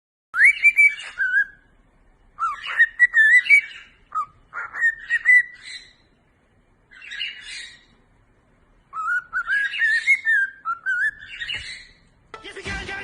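Chirping, whistle-like animal calls in five bursts of wavering, rising notes with short pauses between them. Music cuts in near the end.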